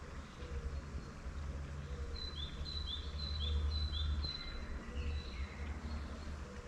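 Wild birds singing, one repeating a short high note that rises, then holds, about four times in quick succession around the middle, with a fainter, lower call repeating now and then. A steady low rumble runs underneath.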